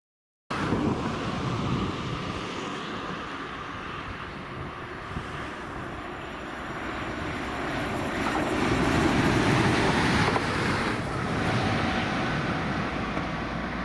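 Train running on a railway test track, a steady rumble that cuts in abruptly about half a second in, grows louder to a peak about two-thirds of the way through, then eases slightly.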